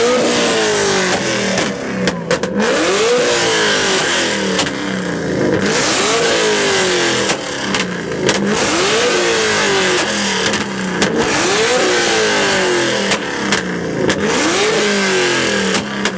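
A car engine revved hard over and over, about every three seconds, each rev shooting up quickly and dropping back, with sharp exhaust pops and crackles between revs, typical of a flame-shooting exhaust.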